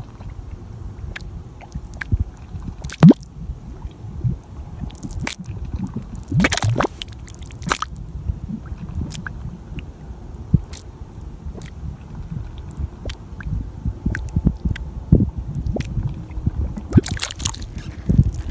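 Mud volcano bubbling: thick mud gurgling with irregular wet pops and squelches as gas bubbles burst through it, and a louder splashy burst near the end.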